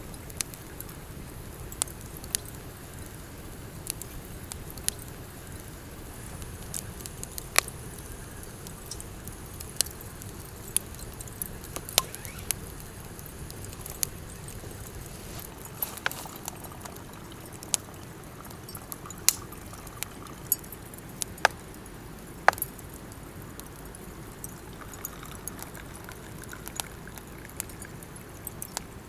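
Campfire crackling, with irregular sharp pops and snaps over a low steady rush.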